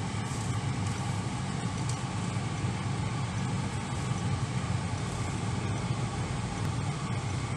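Volkswagen Santana GTS running steadily, heard from inside the cabin: an even low engine hum with no change in speed.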